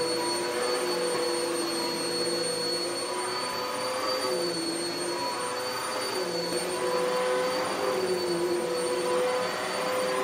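Vacuum cleaner running steadily as it is pushed across carpet, picking up dog hair. Its motor whine dips briefly in pitch a few times.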